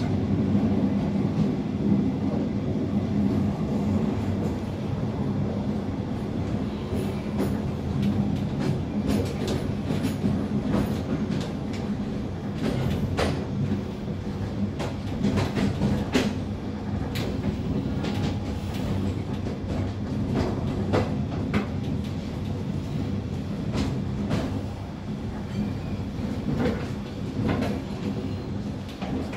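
Passenger train carriage rolling along the track: a steady low rumble with scattered sharp clicks from the wheels over the rails.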